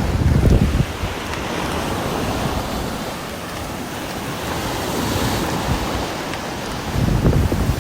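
Steady hiss of heavy rain, with a low rumbling swell in the first second and another about seven seconds in.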